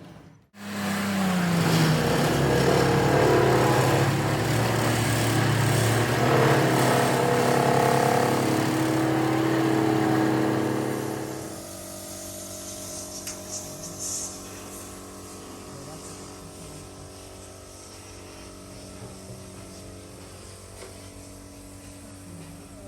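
Diesel engine of a HAMM road roller running fast and loud, coming in suddenly, then dropping about halfway through to a quieter, steady idle.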